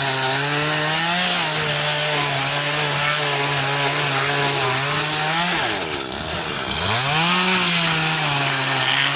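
Two-stroke chainsaw running at high revs with a steady note, likely cutting through wood. About five and a half seconds in the engine drops toward idle, revs up once more briefly, and falls back again near the end.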